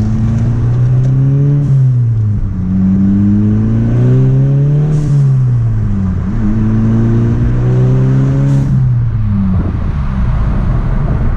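Volkswagen GTI's turbocharged 2.0 TSI four-cylinder, heard from inside the cabin, climbing in revs under boost and dropping back at three gear changes. At the shifts there are short whooshes from the diverter valve, which now has a spacer that vents boost to the air, so it makes a blow-off valve sound.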